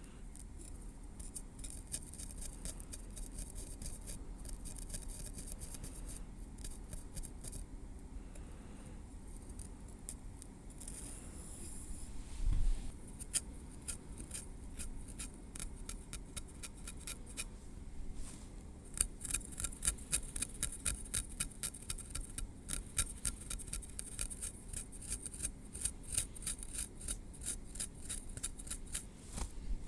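Metal tweezers picking and clicking through hair at the scalp, heard close up as a run of small crisp ticks. The ticks are sparse at first and come quick and louder from about two-thirds of the way in. There is one soft bump near the middle.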